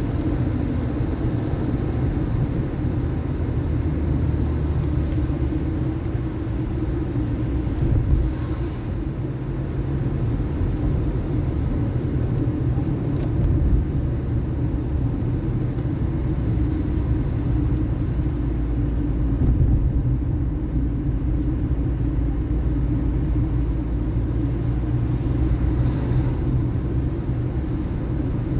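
Car driving along: a steady low engine and road rumble, with a few faint clicks and small swells.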